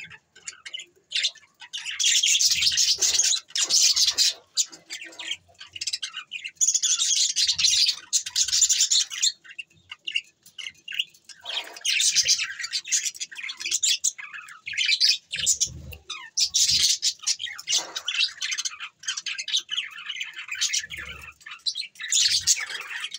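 Budgerigars chattering and chirping: rapid, high-pitched warbling in spells of a few seconds with short pauses between them.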